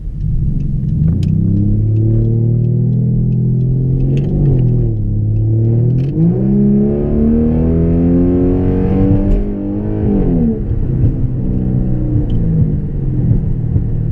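Straight-piped 2011 Dodge Charger's V6 under hard acceleration. The exhaust rises in pitch, drops sharply about four and a half seconds in at an upshift, climbs again, then eases off about ten seconds in and settles to a lower steady run.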